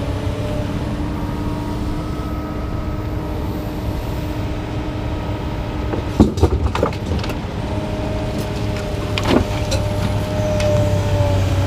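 A motor vehicle engine running steadily, with a few sharp knocks of scrap being unloaded about six and nine seconds in.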